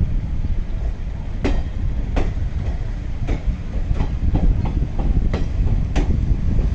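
Indian Railways passenger coach rolling slowly along the track, heard from its open window: a steady low rumble with irregular sharp clicks as the wheels pass over rail joints.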